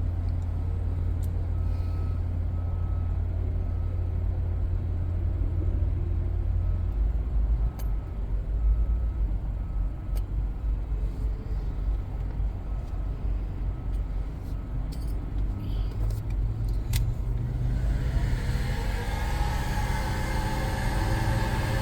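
Low rumble of a vehicle engine running, with a reversing alarm beeping at an even pace through the first half. Music comes in near the end.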